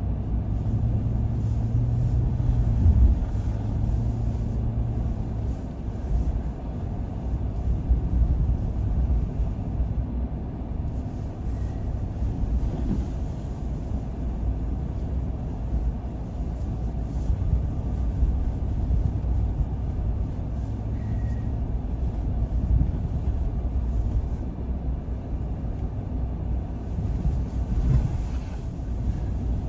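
A car driving along a road, its engine and tyres making a steady low rumble, with a low hum that is stronger for the first few seconds.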